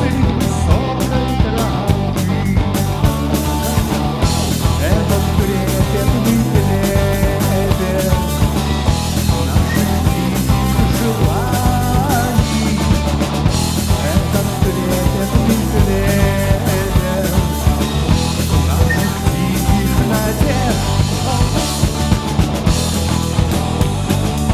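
Rock band playing an instrumental passage live, with a drum kit keeping a steady beat under a melodic lead line.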